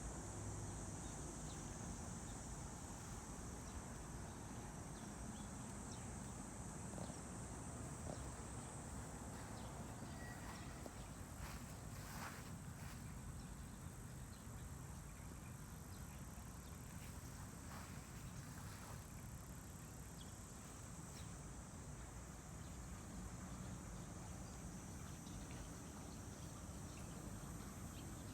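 Steady high-pitched trilling of insects, with a few faint clicks around the middle and a thin, steady high tone coming in about two-thirds of the way through.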